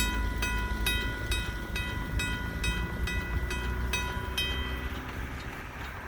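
Griswold mechanical railroad crossing bell ringing, about two evenly spaced strokes a second, over a steady low rumble. It stops about five seconds in.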